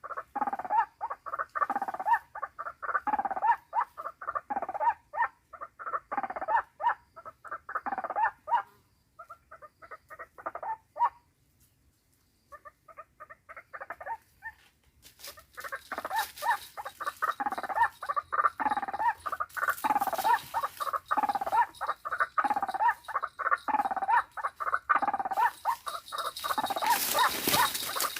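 White-breasted waterhen (ruak-ruak) calls, a harsh note repeated about once a second. They break off for a few seconds midway, then resume, with a hissing noise building toward the end.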